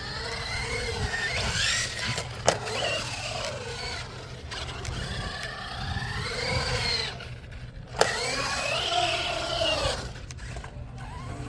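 Brushless electric motor of an Arrma Granite RC truck whining, rising and falling in pitch over and over as the throttle goes on and off. Two sharp knocks, one about two and a half seconds in and one about eight seconds in.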